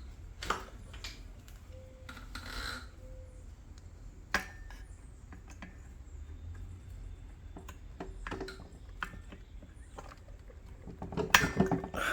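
Scattered clicks and knocks of hand tools and parts being handled on a Ryobi small engine during a spark plug and coil change: a sharp knock about half a second in, another around four seconds, and a quick cluster of knocks near the end, over a low steady hum.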